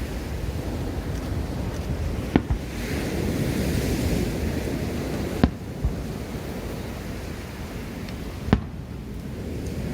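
Firework shells bursting: three sharp bangs about three seconds apart, over a steady rush of surf and wind buffeting the phone's microphone.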